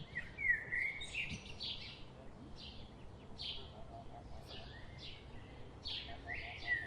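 Small birds chirping over and over: quick high chirps about once or twice a second, with a few short sliding whistles near the start and near the end.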